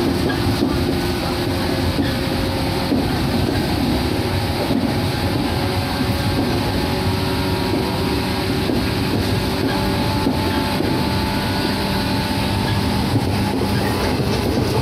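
Interior running sound of a Shinano Railway 115 series electric multiple unit under way. There is a steady rumble of wheels on rail, with a faint steady hum from the running gear and an occasional light knock from the track.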